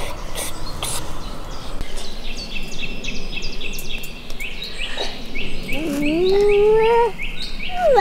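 A songbird singing a long series of short, repeated down-slurred chirps, several a second, starting a couple of seconds in. Near the end a person's voice rises in pitch briefly.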